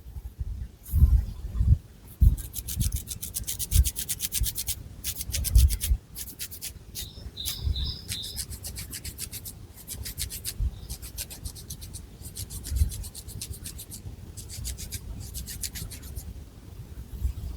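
Long fingernails scratching through long hair on the scalp, in quick rhythmic runs of crisp strokes with short pauses between them, over soft low thumps from hair and hand movement.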